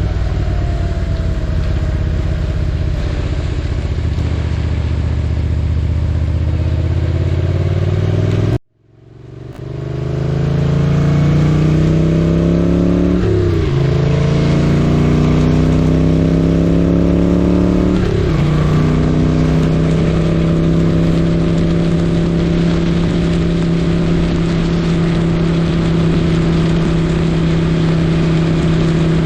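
The V-twin engine of a 1978 Moto Guzzi 850 Le Mans running at a steady speed under way. About nine seconds in the sound cuts out and fades back in. The engine then climbs in pitch through two upshifts and settles into a steady cruise.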